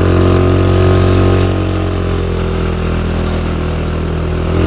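Vehicle engine running steadily under load as it climbs a steep road, with an even, low hum that eases off slightly after about a second and a half.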